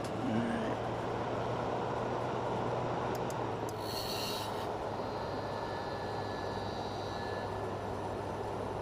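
Vintage Sears Coldspot window air conditioner running just after start-up: fan blowing steadily over a constant low hum from the compressor, with a brief hiss about four seconds in. The owner thinks the start-up still doesn't sound quite right.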